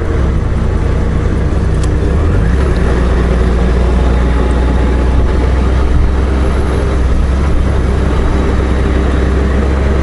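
2018 Honda Gold Wing motorcycle's flat-six engine running at a steady pitch, with a constant low hum and road noise.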